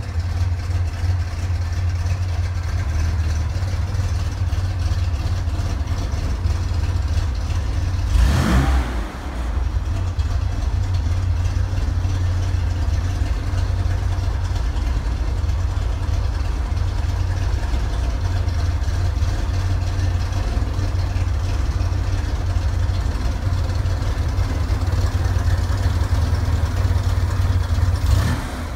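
1961 Chevrolet Corvair Rampside's rear-mounted air-cooled flat-six idling with a steady low rumble, with a brief rush of noise about eight seconds in.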